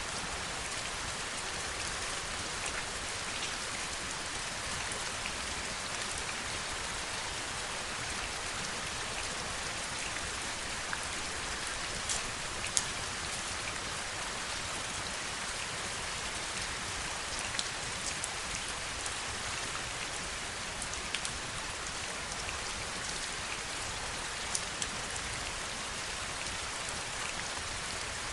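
Steady heavy rain with a constant hiss, and now and then single louder drops ticking close by, a few of them just before the middle.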